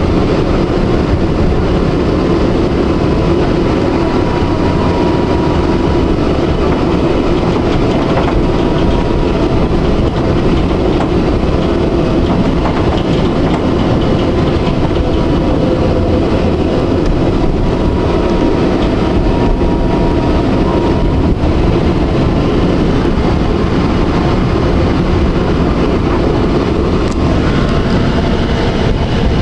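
Electric tram running along its rails: a steady rumble of wheels and running gear, with a faint high tone that comes and goes.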